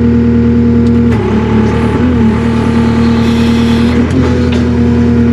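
Takeuchi TL240 skid steer's diesel engine running steadily, its pitch sagging and wavering briefly a little over a second in and again about four seconds in.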